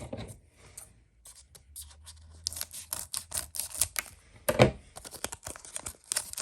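Baseball trading cards being flipped and slid against one another one after another, a quick run of papery clicks and swishes with one louder knock about four and a half seconds in.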